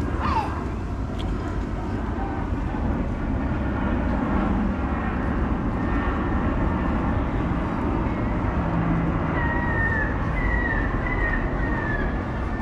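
Steady low rumble of a vehicle or street traffic, with a few short falling chirps near the end.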